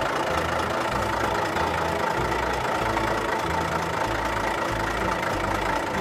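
Tractor engine sound running steadily at an even pitch, with low notes of background music under it.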